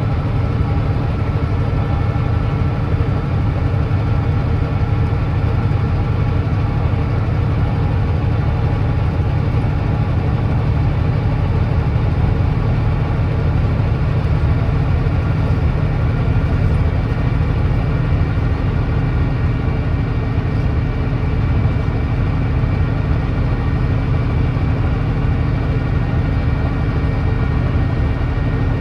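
Volvo D9B 9.3-litre diesel engine of a Volvo B9TL double-decker bus running steadily at near-constant revs, with no gear changes or rises in pitch. The bus has an exhaust leak.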